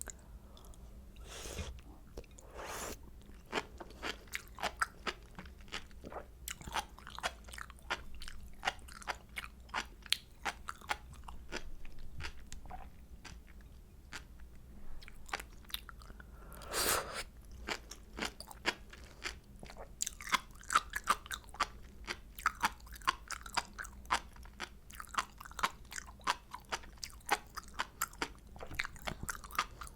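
Sea grapes being chewed, their small beads bursting in many quick, crisp pops that come thicker in the second half. A few broader, louder crunches stand out, the loudest about seventeen seconds in.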